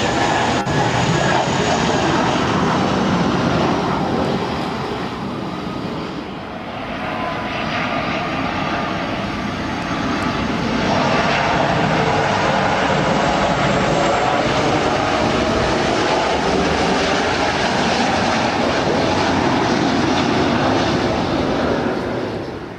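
Jet aircraft engines running loud and continuous, easing off for a few seconds, then swelling again before dropping away near the end.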